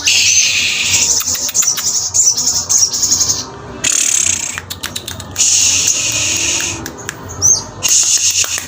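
A small songbird kept as a cage bird, the sogon, chattering in fast, high-pitched trills broken by sharp ticking notes and short rising whistles, with brief pauses in between.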